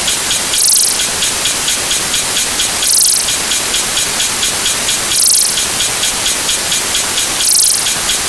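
A dense, hissing wash of many sound effects stacked and repeating on top of one another, so thick that no single effect stands out. Small regular ticks run through it, and a brighter burst comes about every two seconds.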